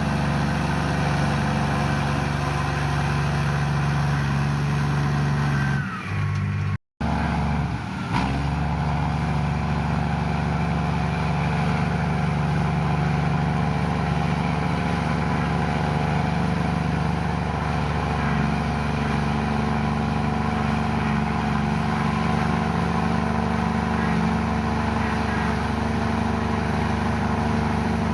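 Komatsu bulldozer's diesel engine running steadily under load, with a brief break in the sound about seven seconds in.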